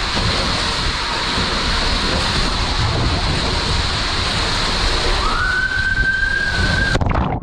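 Steady rush of water along a water slide during a ride down it. About five seconds in, a high held squeal sounds for about two seconds, and then the rushing cuts off suddenly near the end.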